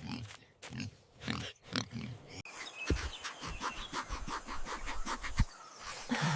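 A pig grunting in a quick series of short grunts. About two and a half seconds in, this gives way to an even patter of about five ticks a second, with two low thumps.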